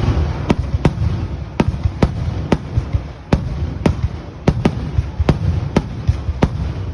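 Fireworks going off: a run of sharp, irregular reports, about two a second, over a low rumble.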